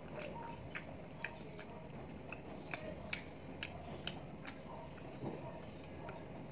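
A person chewing a mouthful of french fries with the mouth close to the microphone, giving faint wet clicks and smacks about twice a second.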